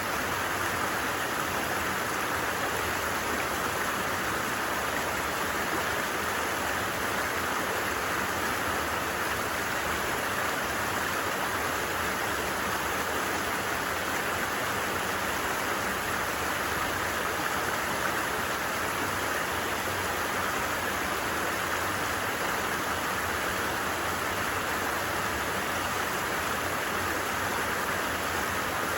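A stream flowing over rocks, a steady, even rush of water with no change in level.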